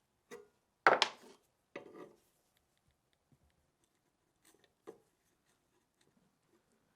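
Handling noise from MG 81 machine gun parts being worked on: a light knock, then a loud clatter about a second in, another clatter just before two seconds, and two faint knocks near five seconds.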